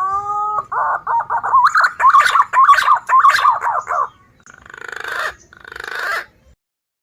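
Green pigeon (punai) song, a lure call for trapping: a drawn-out rising whistle, then a fast run of warbling whistled notes, ending in two hoarse, rasping phrases.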